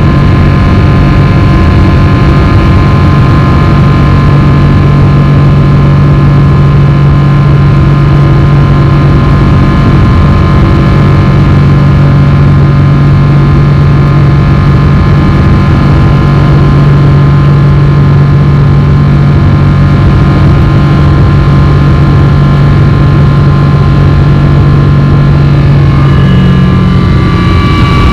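Boeing 777-300 jet engines running steadily at low power, a deep hum with several high steady whines over it. About two seconds before the end the tones step up in pitch as the engines begin to spool up.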